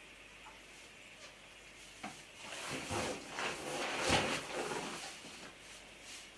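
Rubbing and rustling against a giant rubber balloon as it is drawn on with a marker and handled, starting about two seconds in and loudest around four seconds, with a few faint ticks before it.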